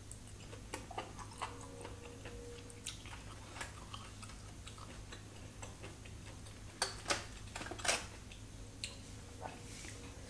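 Close-miked eating sounds: soft wet clicks and smacks of a mouth chewing barbecued mushroom, with a few louder crackles about seven to eight seconds in.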